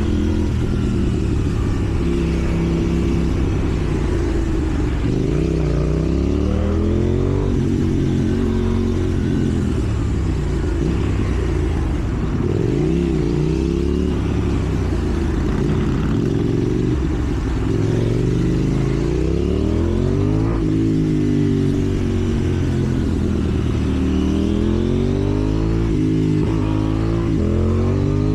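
KTM 790 Duke's parallel-twin engine riding through traffic, its note rising and falling again and again as the rider accelerates and changes gear.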